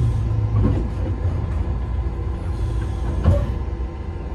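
Steady low rumble inside a JR 103 series electric train. A faint steady hum joins about halfway through, and there is a single short click about three seconds in.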